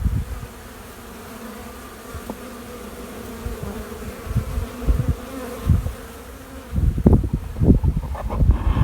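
A honeybee swarm buzzing with a steady hum as the bees file into a hive box. From about seven seconds in, irregular low bumps and rumble join the hum.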